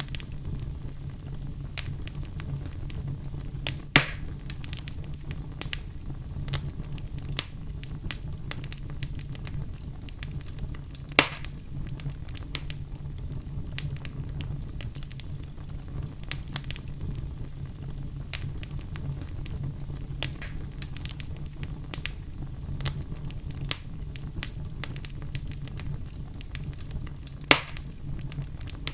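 Fire in a fireplace crackling, with frequent small snaps over a steady low rumble and three louder pops spread through.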